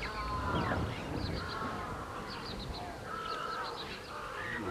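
Several birds calling across open marshland: repeated calls that rise and fall in pitch and overlap one another, with clusters of short, high chirps in between.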